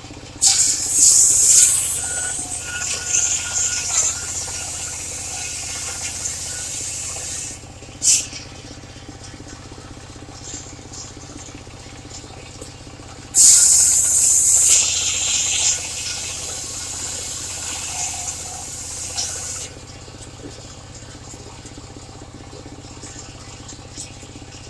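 Engine-driven mobile circular sawmill running steadily, its blade ripping through timber twice, each cut lasting about six or seven seconds, with a short loud burst just after the first cut.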